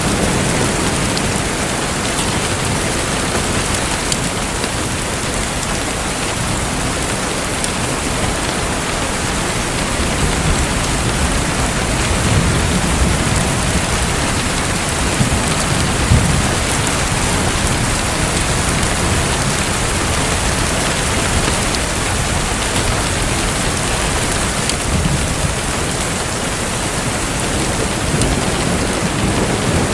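Steady water noise, an even hiss of splashing or falling water, with a few soft low rumbles near the middle.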